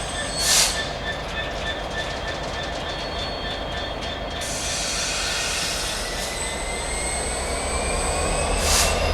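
A train moving in a station. It makes steady high-pitched whines, and a tone rises slowly in pitch through the second half. There are two short hisses, one about half a second in and one near the end.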